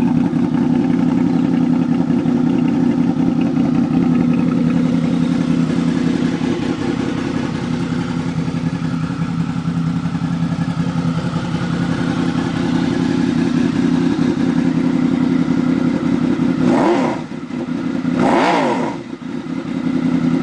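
Honda VFR800 Interceptor's V4 engine idling steadily just after a cold start. Near the end the throttle is blipped twice, and the revs rise and fall quickly each time.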